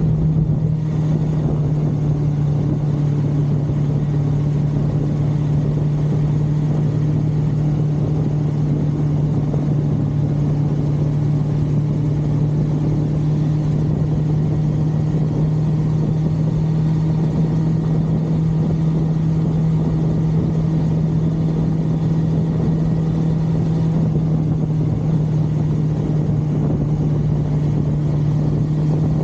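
1982 Suzuki GS550L's air-cooled inline-four engine running at a steady cruise, one constant drone that holds the same pitch throughout with no shifting or revving.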